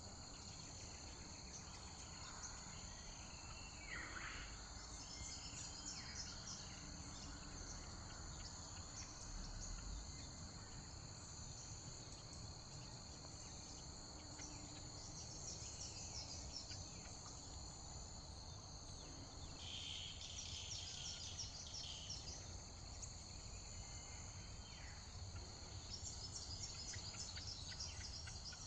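Steady high-pitched chorus of insects, with a few bird calls, one about four seconds in and a brief burst around twenty seconds in.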